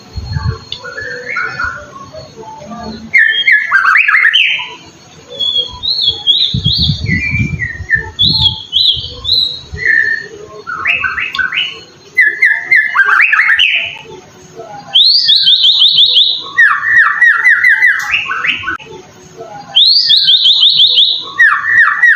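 White-rumped shama (murai batu) singing a loud, varied song of short phrases. From about two-thirds of the way in, the phrases become fast runs of rapidly repeated notes.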